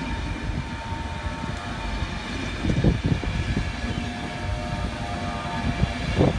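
Express passenger train passing close by at speed: a steady rumble of wheels on rail, with heavier thumps as wheelsets cross rail joints, about three seconds in and again near the end. A faint steady whine joins in over the second half.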